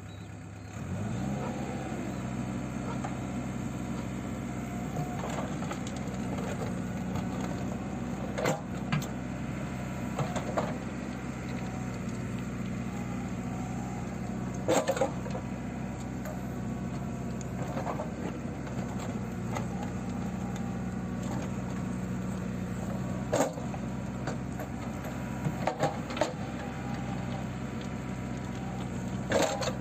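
JCB 3CX backhoe loader's diesel engine speeding up about a second in and then running steadily at work revs, with about six sharp knocks scattered through it.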